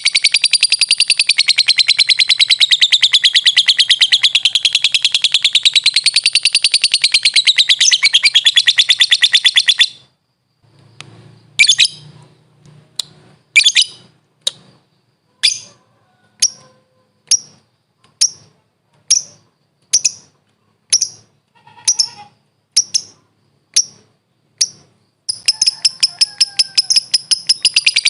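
Lovebird giving a long, very fast chattering trill (the ngekek) that breaks off about ten seconds in; then single sharp high chirps, roughly one a second, until the long trill starts again near the end.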